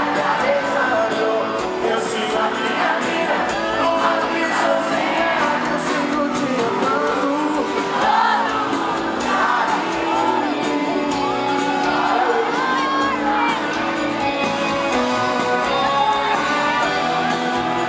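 Live sertanejo band playing, with singing and shouts from the audience over the music.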